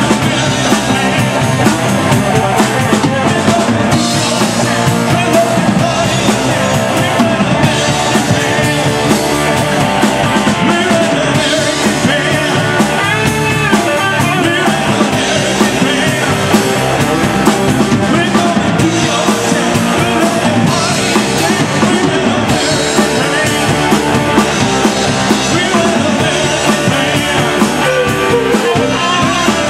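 Live rock band playing: drum kit, guitar and singing, loud and continuous.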